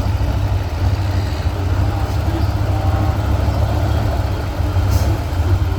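Heavy truck engine idling with a steady low rumble, and a brief click about five seconds in.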